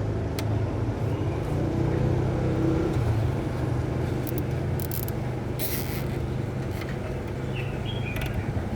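A steady low motor hum, with a few light clicks and brief hisses over it.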